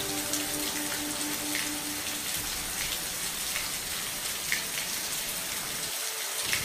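Steady rain falling, a constant hiss with scattered single drops ticking. A faint low hum runs under it and fades out about two seconds in.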